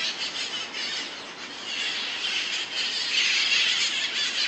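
A flock of parrots squawking and screeching together in a dense, high-pitched chorus that grows louder about two seconds in.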